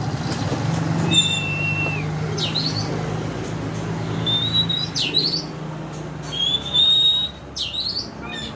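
Oriental magpie-robin (kacer) singing: clear, level whistles about a second long alternating with quick rising notes, about three phrases of each.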